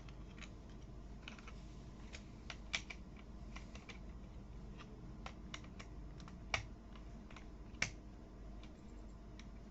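Toy building blocks being handled and snapped together: a string of small, irregular plastic clicks and taps, three of them sharper than the rest.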